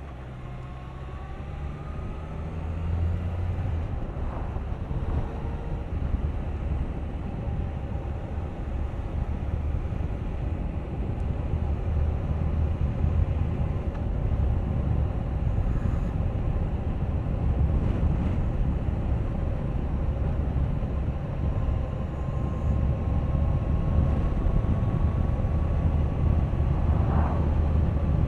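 Suzuki GSX1250FA's inline-four engine running on the road, with wind rushing over the bike. It grows louder over the first few seconds, then stays fairly steady.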